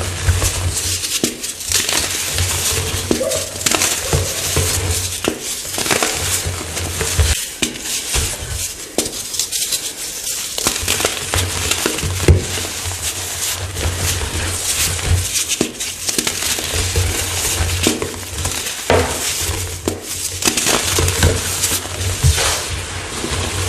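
Blocks of fresh chalk being crushed, a dense, continuous run of crisp crunches and crumbling crackles.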